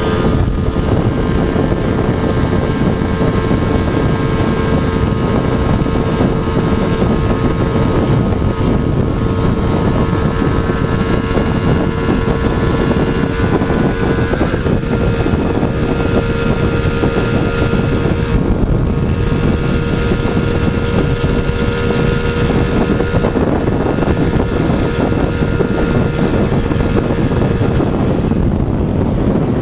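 Motorcycle engine running at a steady pace under heavy wind buffeting on the microphone. The steady engine note drops away near the end, leaving mostly wind.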